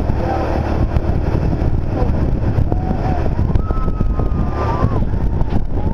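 Motorized river raft under way: a steady low engine rumble with wind buffeting the microphone.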